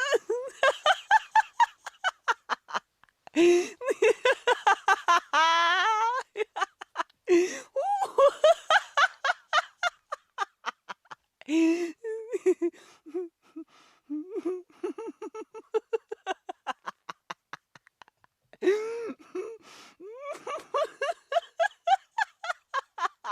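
Girls laughing hard in repeated high-pitched bouts of quick ha-ha pulses, several a second, with a sharp breath drawn between bouts.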